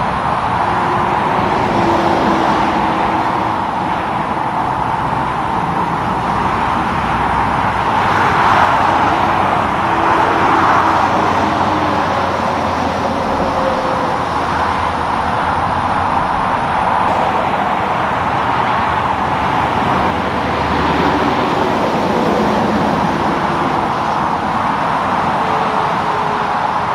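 Steady roadway traffic noise from cars and trucks passing on a highway, with tyre and engine noise swelling as vehicles go by, most noticeably about eight to eleven seconds in and again around twenty-one seconds.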